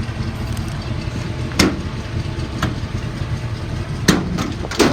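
The 5.9-litre gas V8 of a Dodge Ram 3500 idling steadily, an engine said to have a slight misfire at idle. Five sharp knocks sound over it, three of them close together near the end.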